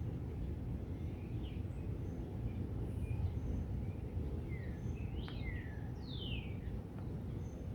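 Outdoor ambience: a steady low rumble with birds chirping over it, short scattered calls and a few clearer falling chirps about five to six seconds in.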